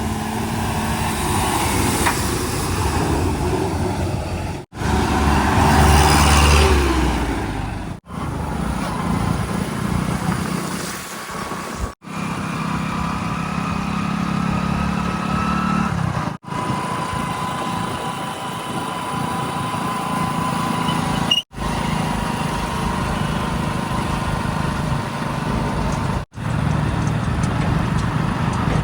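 Diesel engines of earthmoving machinery and trucks running, heard in a string of short clips that cut off abruptly every four to five seconds. One clip, about five seconds in, is louder, with the engine revving.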